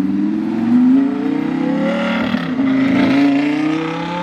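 Car engine accelerating hard past, its pitch climbing steadily, dropping at an upshift about two and a half seconds in, then climbing again.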